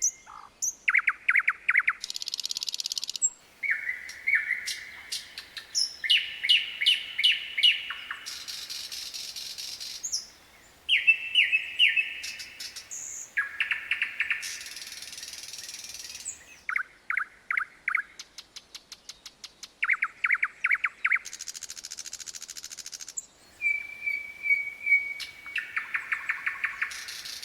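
Common nightingale singing: a string of varied phrases of rapid repeated notes, clear whistles and harsh buzzing rattles, with short pauses between phrases.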